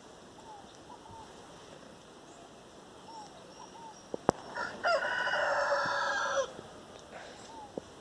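A rooster crowing once, one long call of about a second and a half, with a sharp click just before it. Faint short bird chirps come and go throughout.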